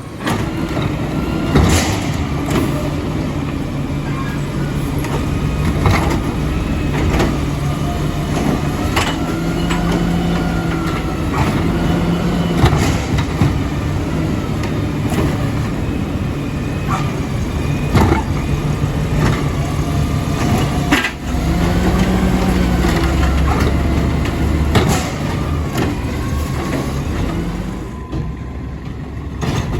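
Garbage truck working: its engine runs and revs up and down over and over, with the hydraulics, and a series of sharp bangs and clatters come through as it handles and empties the bins.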